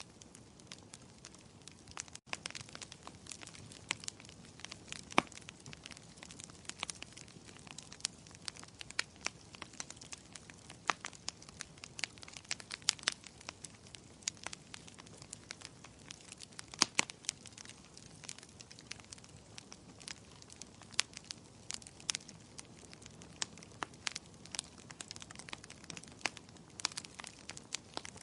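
Burning firewood crackling: a steady soft hiss of flames with frequent irregular sharp pops and snaps, a few of them louder.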